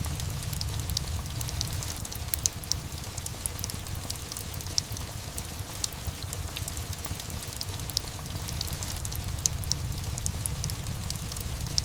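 Rain and fireplace ambience: steady rain over a low rumble, dotted all through with small sharp crackles and pops of burning wood.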